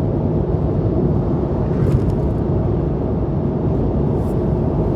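Steady low rumbling noise, even throughout, with no distinct clicks or pops.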